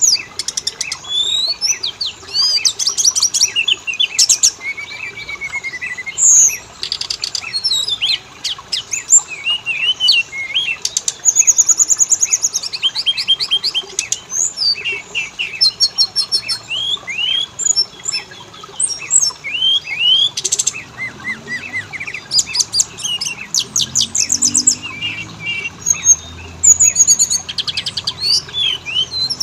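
Oriental magpie-robin (kacer) song: a continuous, varied stream of loud whistles, slurred rising and falling notes and rapid trills. It is a lure (pancingan) recording used to set caged kacer singing.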